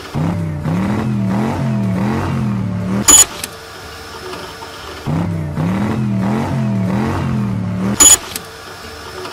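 Cartoon toy-car engine sound effect, a low hum wavering up and down in pitch for about three seconds, twice over. Each run ends in a short, sharp click with a bright ring as a garage door snaps shut, once about three seconds in and again about eight seconds in.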